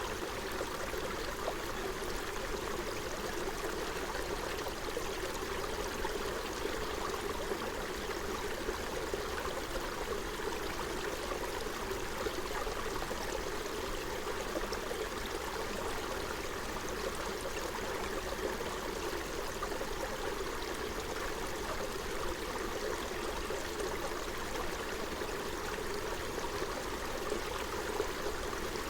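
Forest stream flowing over stones, a steady babble and trickle of water.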